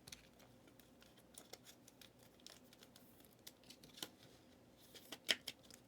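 Faint scratchy clicks and rustles of football trading cards and their pack being handled, with a few sharper snaps near the end.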